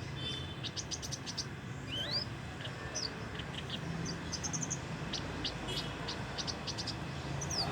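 Javan bush lark (branjangan) practising its song in scattered short, high chirps and a few rising whistled notes: an immature, still-learning song, not yet in full voice. A steady low hum runs underneath.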